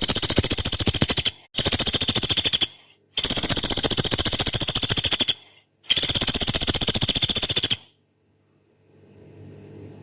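Pelatuk beras, a small woodpecker, giving four long, coarse, rapid rattling calls in quick succession, each lasting one to two seconds, then falling quiet for the last couple of seconds.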